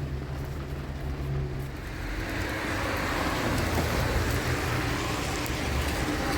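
Motor vehicle running, a low steady engine hum, with a hiss of road or wind noise building up about two seconds in.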